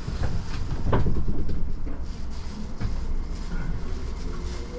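Tobu Spacia X electric train running along the line, heard from inside the carriage: a steady low rumble with a sharp knock about a second in.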